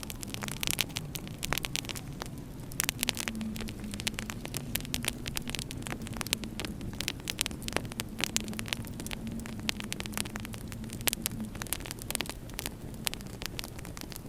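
Wood fire crackling in a fireplace, with many irregular sharp pops and snaps, over a low, wavering drone.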